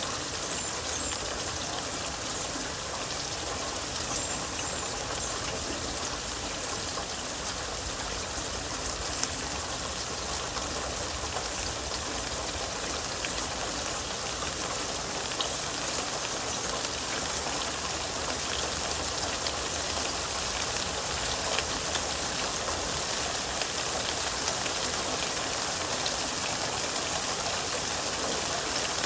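Steady rainfall, with raindrops pattering on surfaces in a continuous even hiss.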